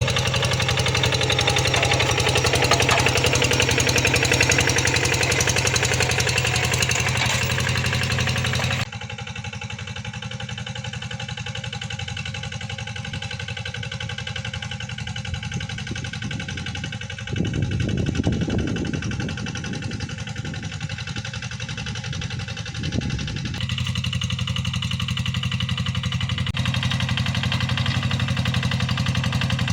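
Tractor engine running steadily while plowing a rice paddy. The sound drops abruptly about nine seconds in, swells briefly a little later, and comes back up to its earlier level near the end.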